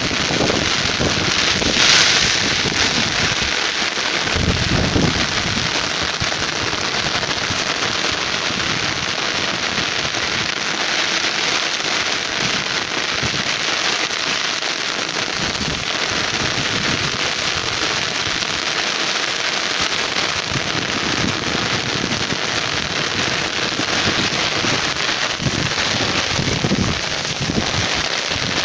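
Heavy rain falling steadily on open ground, an even hiss of countless drops. It briefly gets louder about two seconds in, with a few short low rumbles mixed in.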